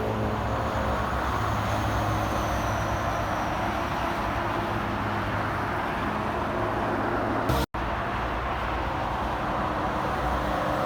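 Interstate highway traffic passing: a steady rush of tyres and the engines of trucks and cars. A faint high whistle slides down in pitch about two seconds in, and the sound cuts out for an instant about three-quarters of the way through.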